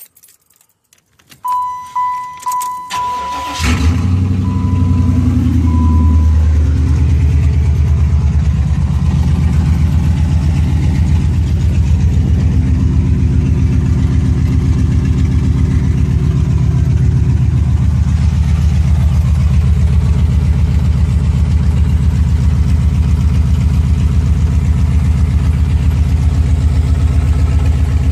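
1994 Chevrolet Caprice 9C1 V8 cranking briefly under a beeping warning chime, catching about three and a half seconds in, then settling into a loud, steady, rhythmic idle. The exhaust runs through tri-Y headers, catalytic converters and a 2.5-inch X-pipe with no mufflers, dumped before the rear axle.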